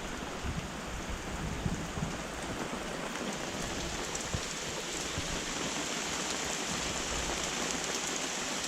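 Steady rain from a tropical squall, with a few louder drops striking now and then.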